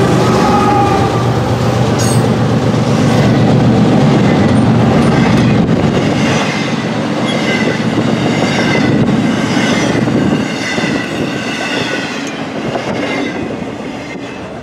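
Full-size freight train rolling past, wheels clattering over the rails with some high wheel squeal, the noise easing off toward the end.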